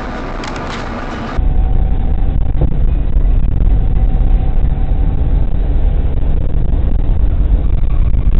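Steady road and engine rumble of a moving car. About a second and a half in it changes abruptly to a louder, more muffled, deep rumble.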